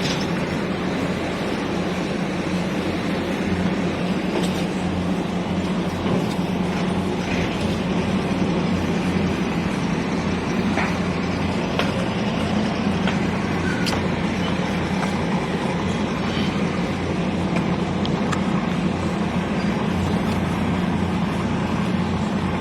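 A machine running steadily with a low, constant drone, over a wash of background noise and a few faint clicks.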